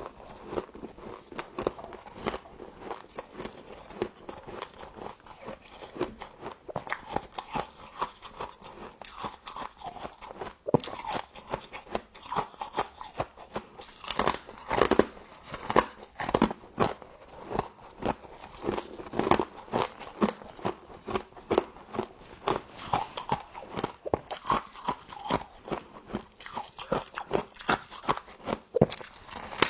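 Close-up chewing of humidifier frost: a dense, irregular run of sharp crunches, a little louder from about halfway.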